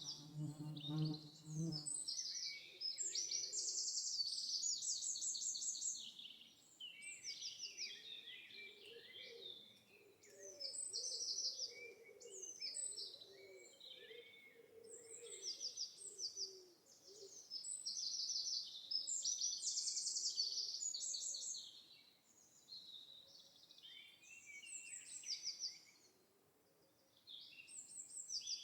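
Several birds singing: bursts of high, fast trills and chirps over and over, with softer lower-pitched calls in the middle. A brief low hum sounds in the first couple of seconds.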